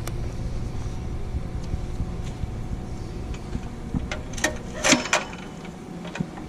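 Single-cylinder air-cooled 196cc 168F diesel engine on a generator running with a steady rumble, then a few sharp clacks about four and a half seconds in as the engine dies away.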